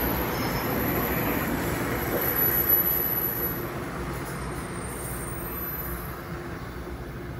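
Commuter train pulling away: wheels rumbling on the rails and the drone of its PL42AC diesel locomotive fading steadily as the train recedes, with one brief louder clank about two and a half seconds in.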